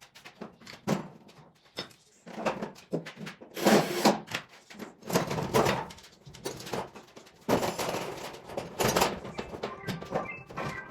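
Irregular knocks, thuds and clattering handling noises at uneven intervals, with a short run of high steady tones near the end.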